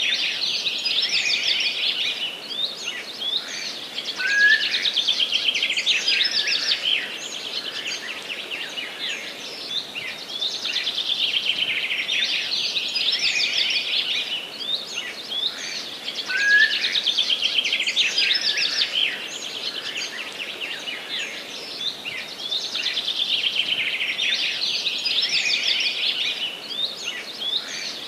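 A dense chorus of forest songbirds chirping and singing in rapid, high-pitched trills. The same stretch of song, marked by a short rising note, comes round again about every twelve seconds.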